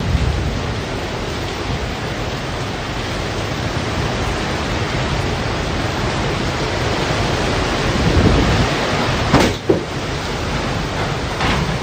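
Typhoon winds and rain blowing as a loud, steady rush of noise, with a brief louder swell about nine seconds in.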